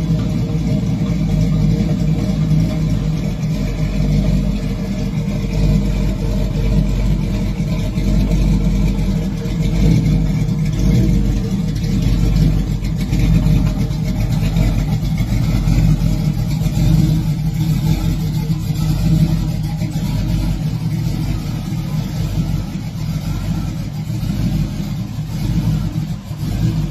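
Box Chevy Caprice Classic's LS-swapped V8 running steadily at idle, a low exhaust rumble with only slight rises and falls.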